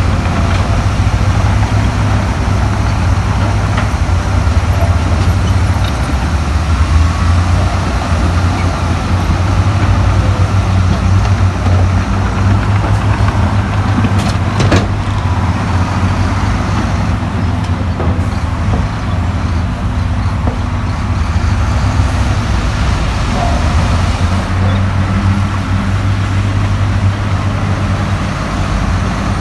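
Heavy diesel earthmoving machinery running steadily under load, with a deep engine drone and a single sharp knock about halfway through.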